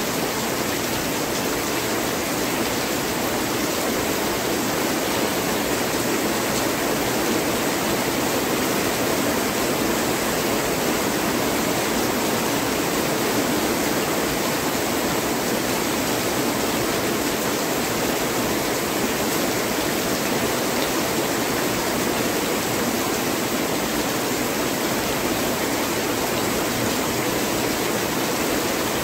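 Heavy rain pouring down steadily, an even, unbroken rushing hiss.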